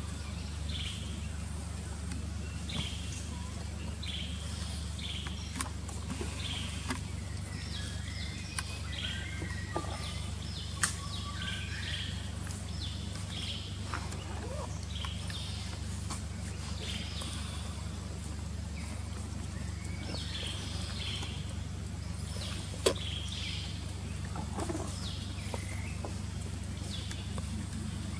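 Forest ambience of many short, high bird chirps calling on and off over a steady low rumble, with a sharp click about eleven seconds in and another near the end.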